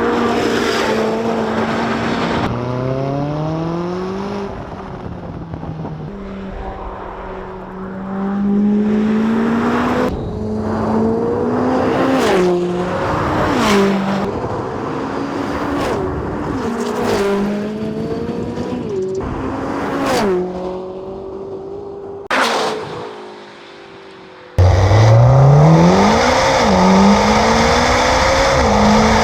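High-performance sports car engine and exhaust accelerating hard through the gears, the pitch climbing and dropping sharply at each of several quick upshifts. After a brief easing off near the end, a louder full-throttle run starts abruptly.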